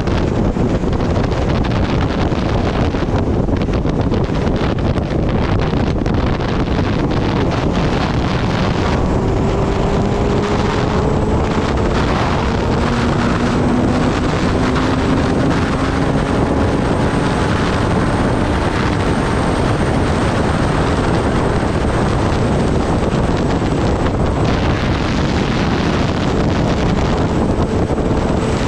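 Heavy wind rushing over the microphone at riding speed, with the Kawasaki Ninja ZX-10R's inline-four engine faintly underneath. The engine note rises slowly in pitch for several seconds around the middle.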